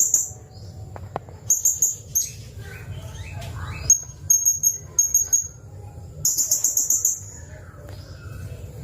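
Blue-crowned hanging parrot (serindit) calling: groups of very high-pitched, sharp chirps, some in quick runs and some in rapid trills, repeated several times.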